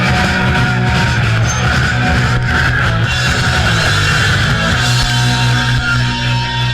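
Loud punk rock played by a band, with distorted electric guitar over a heavy low end; about five seconds in it settles onto a held low chord.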